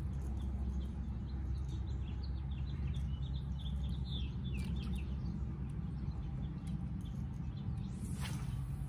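A bird chirps a quick run of short, high notes for a few seconds over a steady low rumble, with a short rushing noise near the end.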